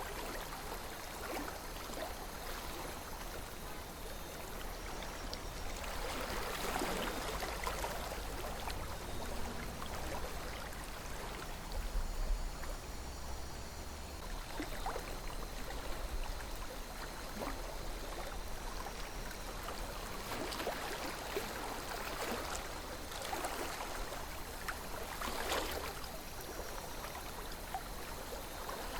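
A calm river flowing: steady rushing water, with a few brief louder swells of the flow.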